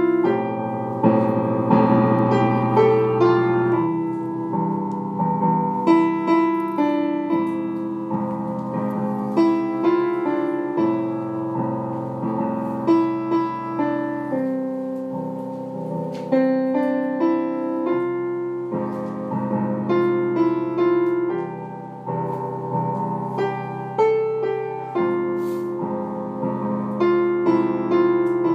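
Background piano music: a melody over chords, notes struck and dying away one after another.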